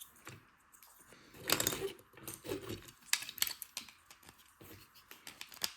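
LEGO plastic bricks clicking and rattling as pieces are handled and pressed together, with a louder clatter of several bricks about one and a half seconds in.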